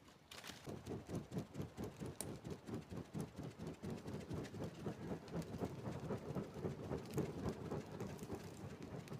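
Meat cooking over an open campfire: dense, irregular crackling, popping and sizzling that starts abruptly about a quarter second in and then keeps going.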